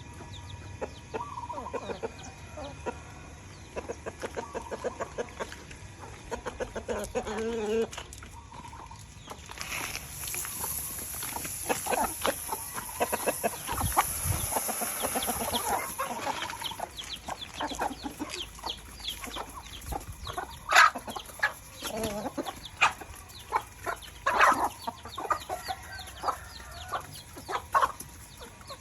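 Chickens clucking on and off, mixed with many short clicks and taps.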